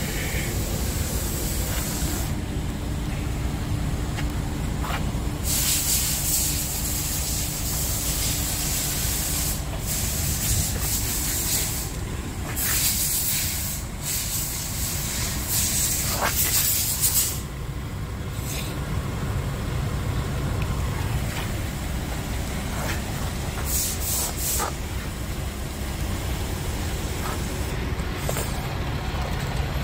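Scania R450 truck's diesel engine idling steadily, with several stretches of hissing air, each a few seconds long.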